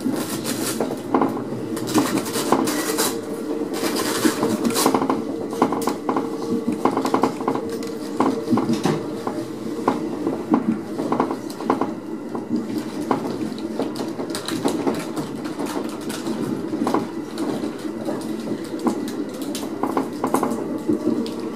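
Running noise of a 3-car electric multiple unit heard from inside the cab: a steady hum with many irregular metallic clicks, clinks and rattles as it rolls along the track.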